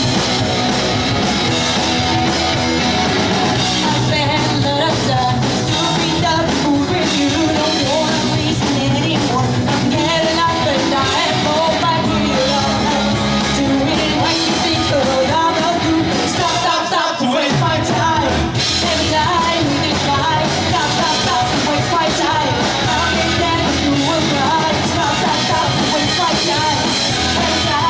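Pop-punk band playing live, with loud distorted guitars, drums and sung vocals; the sound thins out briefly about two-thirds of the way through before the full band comes back in.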